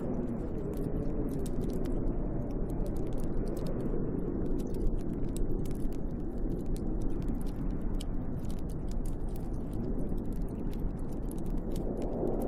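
A wood fire crackling with dense, irregular pops over the steady low rush of snowstorm wind, with the wind rising into a faint howl near the end.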